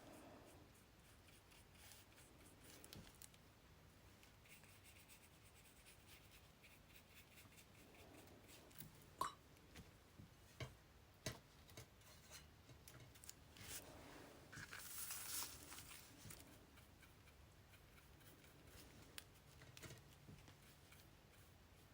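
Near silence with faint, scattered taps and light rubbing from hand craft work with paintbrush and paper, including a brief rustle about two-thirds of the way through.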